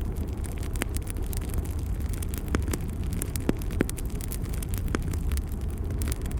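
Wood fire burning in a fireplace: a steady low rumble from the flames with constant crackling and several sharper pops.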